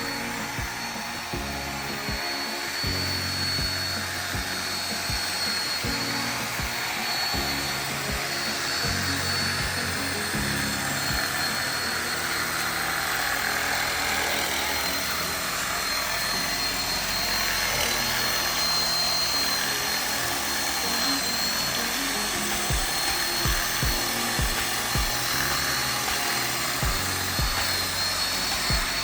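Power drill with a buffing pad running steadily with a thin high whine, buffing polish into a headlight lens, under background music.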